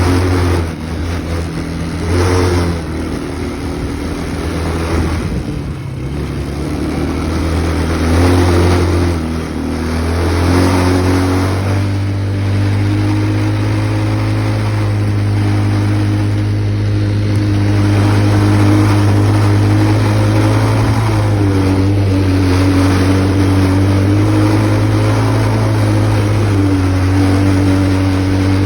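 Tao Tao 125cc ATV's single-cylinder engine revving up and down through the first ten seconds or so, then holding steady at high revs under way, with a couple of brief dips in pitch.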